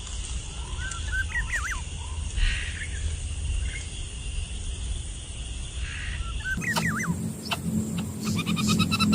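Short, high, squeaky calls from young animals in a bird's nest, coming in two brief clusters over a low steady rumble.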